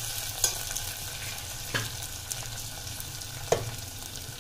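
Potatoes and onions sizzling in hot oil in an aluminium pressure cooker, stirred with a metal spatula that clinks and scrapes against the pot three times, the last the loudest.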